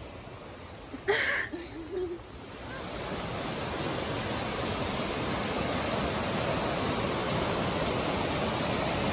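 A short loud vocal sound about a second in, then steady rushing water that fades up from about two and a half seconds in and holds as an even hiss.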